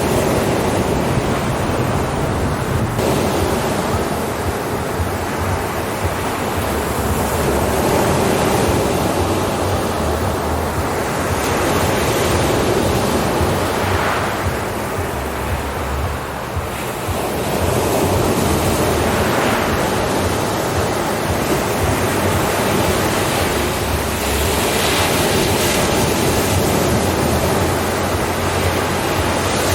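Ocean surf, waves breaking and washing in a continuous rush that swells and eases over several seconds, with a brief lull about halfway through.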